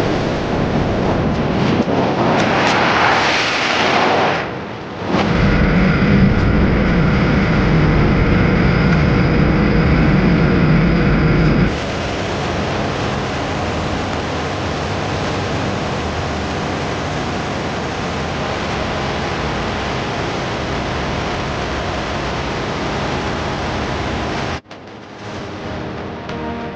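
Loud, steady roar of powerful engines, heard in several abruptly cut segments: a rising rush at first, then a deep low rumble, then an even roar. It cuts off suddenly near the end, and music begins.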